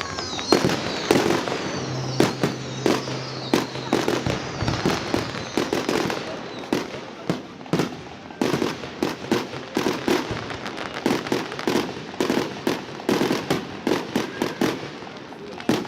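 Fireworks going off in a rapid, irregular string of bangs, several a second.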